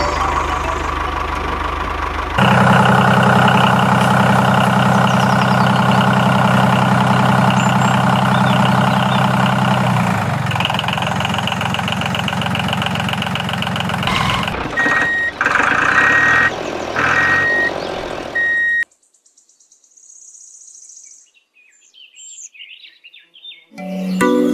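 Dubbed-in tractor engine sound running steadily, joined by a row of short reversing-alarm beeps; it cuts off suddenly about three quarters of the way through, leaving only faint handling sounds.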